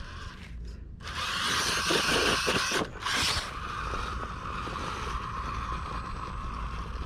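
Axial Capra RC rock crawler driving up a rock: its motor and geared drivetrain whir under load with small scrapes and clicks. The sound starts about a second in, breaks off briefly near three seconds, then goes on a little quieter.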